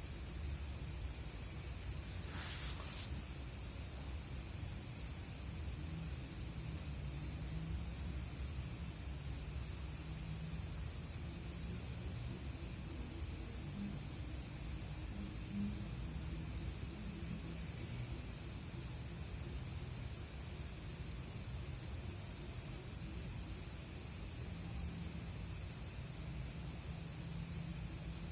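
Night insect chorus: a steady high-pitched drone with crickets chirping in short pulsed trills every second or two. A brief rustle about two seconds in, over a steady low rumble.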